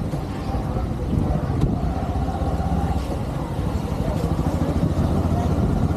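Motorcycle engine running steadily as it is ridden, a dense low rumble throughout.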